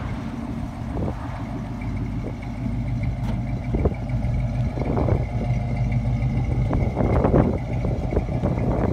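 1965 Ford Mustang fastback's engine idling steadily through its dual exhaust.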